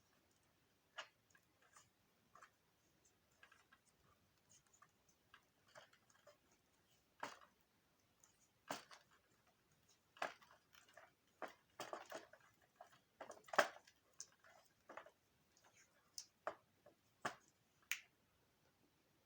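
Faint, irregular clicks and light taps of small parts and wires being handled by hand, with a louder knock about two thirds of the way through.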